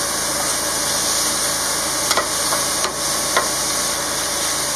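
Food frying in a food truck kitchen: a steady sizzle, with a few light clicks near the middle.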